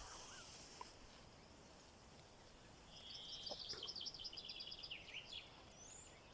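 Faint bird song: about three seconds in, a buzzy note runs into a fast trill of repeated high notes lasting about two seconds, followed by a short rising whistle near the end.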